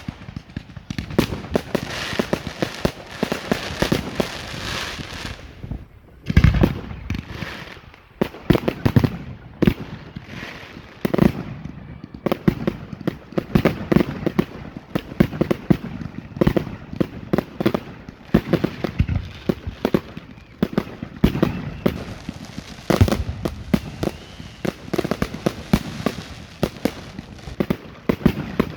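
Category 4 fireworks display in full barrage: a rapid, continuous stream of bangs and crackles, with a heavy boom about six seconds in and another about twenty-three seconds in.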